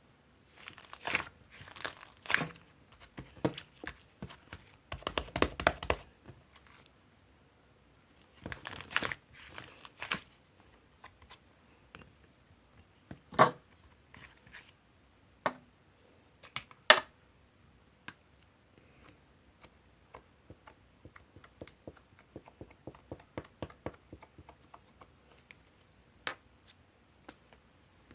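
Irregular crinkling and tearing handling noises with scattered sharp clicks and snaps, loudest in a few clusters early on and two single snaps in the middle.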